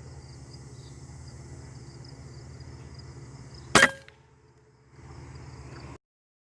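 One sharp shot from a .22 Huben K1 air rifle about four seconds in, with a short metallic ring after it, over a steady low hum. The hum drops for about a second after the shot, then returns and cuts off suddenly.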